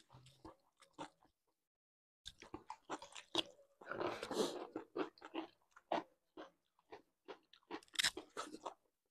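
Close-up eating sounds: crisp crunching bites into raw cucumber mixed with chewing, a quick run of crunches with the loudest about four seconds in. There is a short silent break about a second and a half in.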